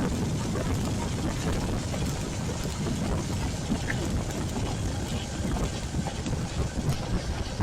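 Wind buffeting and rushing over an action camera's microphone on a moving Royal Enfield Classic 350 motorcycle in rain, with road and engine noise underneath. The noise is steady, heaviest in the low range, with irregular gusty flutter.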